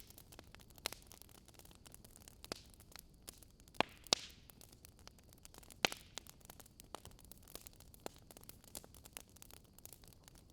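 Wood fire crackling: a steady scatter of small sharp pops, with a few louder ones around four and six seconds in and a short hiss just after four seconds.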